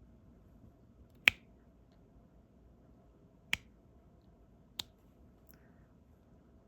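Three sharp clicks, the first the loudest, of a diamond painting pen setting resin drills onto the canvas.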